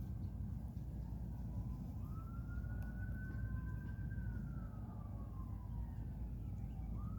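A siren wailing in the distance, its pitch slowly rising and then falling, over a steady low rumble.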